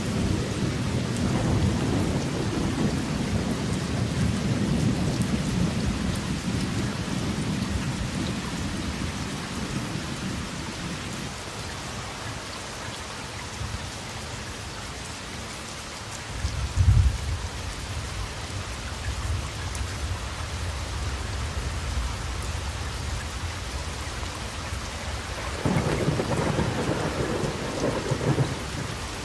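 Steady rain with rolling thunder. A low rumble fades over the first ten seconds, a short sharp clap comes a little past halfway, and another rumble comes near the end.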